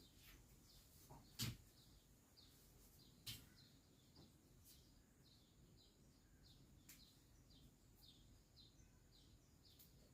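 Faint bird chirping: short repeated chirps, several a second, throughout. Two light knocks, about one and a half and three seconds in.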